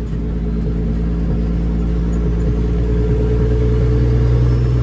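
Straight-piped Caterpillar C13 diesel in a Kenworth W900B dump truck pulling under load with a steady drone, growing louder right at the start.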